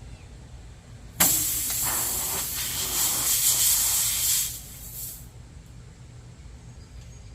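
Air hissing out of a punctured motorcycle rear tire as the plug-kit insertion needle is pulled from the hole. The hiss starts suddenly about a second in, lasts about three seconds, then dies away.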